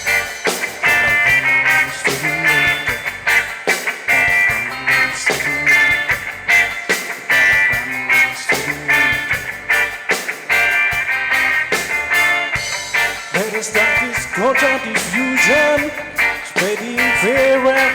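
Live reggae band playing an instrumental stretch with a steady drum beat and guitar, before the vocals come in.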